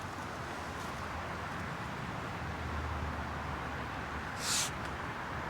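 Steady outdoor background hiss with a low hum underneath, and one short rustle about four and a half seconds in.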